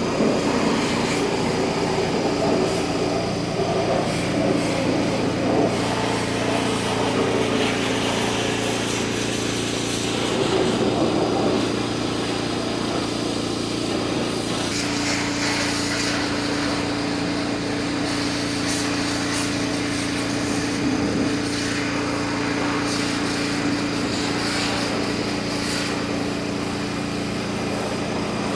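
Nissan N41 mini digger's engine running steadily, its note shifting slightly about halfway through, with some short knocks and rattles over it in the second half.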